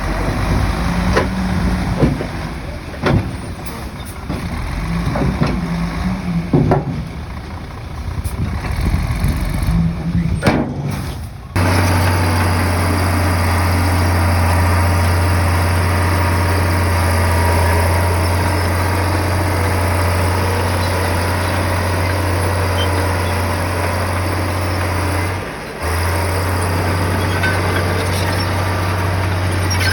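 Komatsu bulldozer's diesel engine working, with scattered knocks and clanks over an uneven engine sound; about a third of the way in the sound cuts abruptly to a steady low engine drone, which breaks off briefly near the end and comes back.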